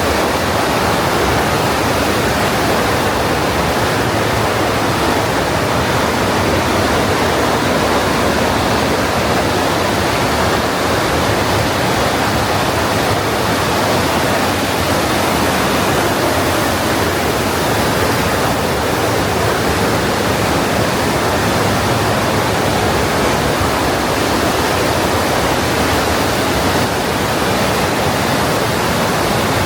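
The Partnach, a fast mountain stream, rushing steadily through its narrow limestone gorge: a loud, even roar of water.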